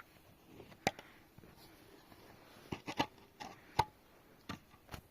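A string of irregular sharp knocks and clicks, about seven over a few seconds.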